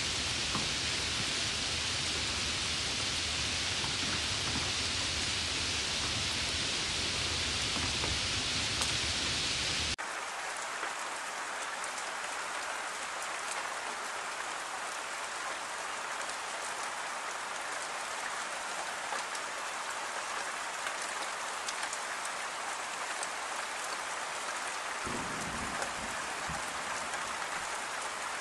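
Steady rain. First a heavier, fuller downpour splashing onto wet ground, which cuts off abruptly about ten seconds in to a quieter, thinner rain falling on trees.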